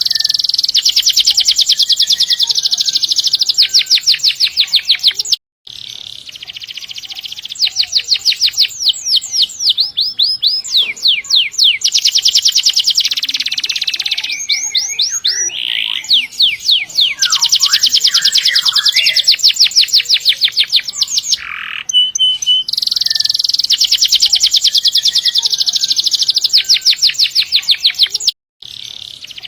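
Domestic canary singing long rolls: fast trills of rapidly repeated high notes lasting several seconds each, changing from one roll to the next. The song cuts out abruptly for a moment twice.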